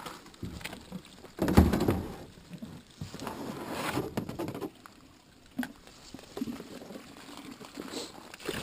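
Spring water splashing and sloshing as it is scooped and handled, with scattered knocks. The loudest splash comes about one and a half seconds in.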